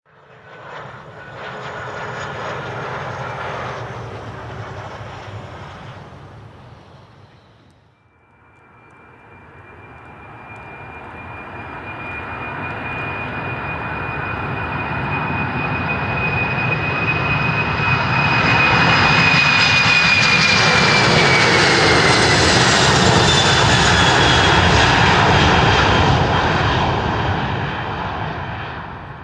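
Jet airliner engines in two passes: the first fades away, then after a cut about eight seconds in, a second builds to its loudest. Its high engine whine drops in pitch as it goes by, then fades.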